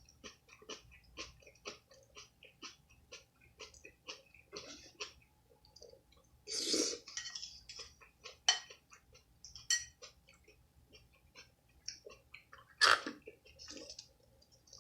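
A person chewing food close to the microphone, in short crisp crunches about two to three a second. Louder sounds stand out about seven seconds in and again near the end.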